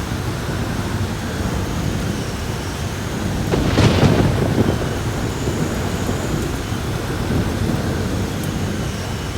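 Heavy rain pouring steadily with a deep rumble of storm wind, and a single thunderclap about four seconds in that cracks and rolls off over about a second.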